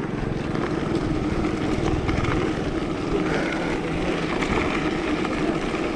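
Strong headwind rushing and buffeting over the microphone of a moving mountain bike, a steady rumbling roar with a low hum running under it.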